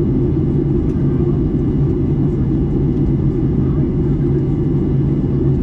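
Cabin noise inside a Boeing 737 MAX 8 in flight: its CFM LEAP-1B engines and the rushing airflow make a steady low roar with a constant hum.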